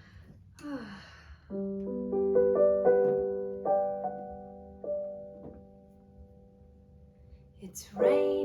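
Piano notes played one at a time from about a second and a half in, building into a chord that rings on and slowly fades, as a song's intro; a new chord is struck near the end.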